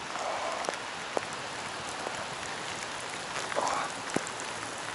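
Heavy rain drumming steadily, with a few sharp taps of drops landing close to the microphone.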